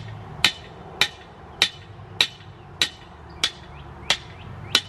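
Hammer blows in a steady rhythm, eight sharp strikes about every 0.6 seconds, each with a short ring, as a trellis pole or stake is driven.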